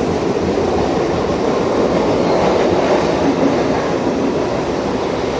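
Mumbai suburban electric local train running along the track, a steady loud rumble of wheels on rail.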